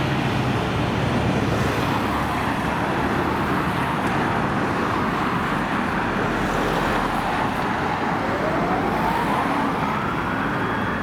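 Heavy road-vehicle noise, with a fire engine's siren starting a wail about eight seconds in, its pitch rising slowly through the last few seconds.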